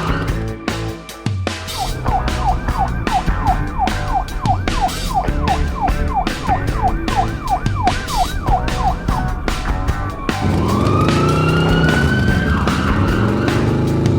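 Police siren sound effect in a fast yelp of quick repeated sweeps, about three a second, then about two-thirds of the way in a single long rising wail, over background music with a steady beat.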